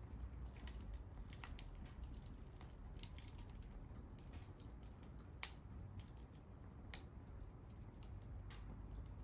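Wood fire crackling with scattered small snaps and a low rumble, one sharp loud pop about five seconds in and a smaller one a second and a half later.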